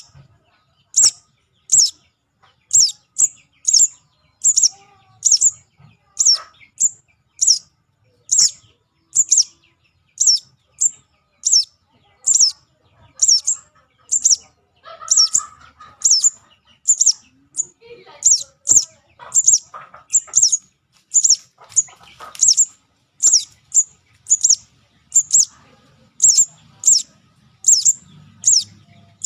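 Juvenile sogon bird's lure call: a short, high chirp that sweeps downward, repeated over and over at a little under two a second. Fainter, lower chirps from other birds come in midway.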